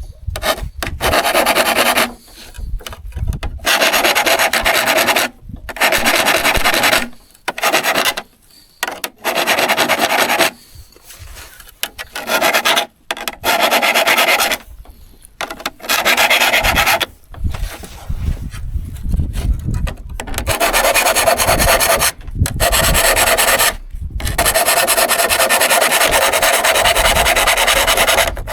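Hand abrasion of a hand saw's steel: rasping strokes in irregular runs with short pauses, then one long unbroken run of strokes near the end.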